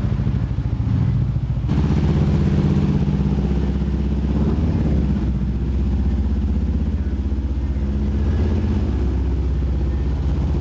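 Vehicle engine running at a steady idle, growing a little fuller and louder about a second and a half in.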